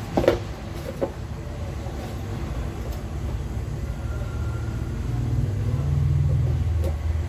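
Low steady hum of a 12 V DC computer cooling fan running off a transformer-and-rectifier supply, growing louder about five seconds in. A couple of sharp clicks come in the first second.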